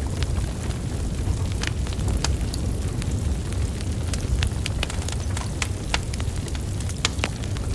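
Wood fire burning, a steady low rumble of flames with irregular sharp crackles and pops from the logs, a few louder pops about seven seconds in.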